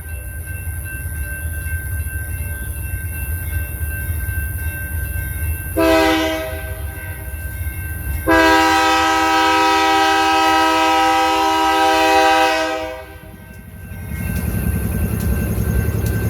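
BNSF diesel freight locomotive's air horn: a short blast about six seconds in, then a long blast of nearly five seconds, over a steady low rumble. Near the end the horn stops and a low engine rumble grows as the locomotive comes closer.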